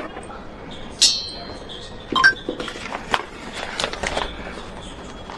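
Scattered clinks and knocks of hard objects being handled, the first about a second in ringing briefly with a high metallic tone.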